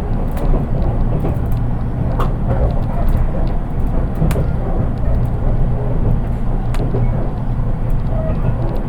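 Interior running sound of a JR East 183 series DC limited-express-type electric train, heard from inside its unpowered driving trailer car (KuHa 183-1528): a steady low rumble of the wheels on the track, with a few sharp clicks and knocks scattered through it.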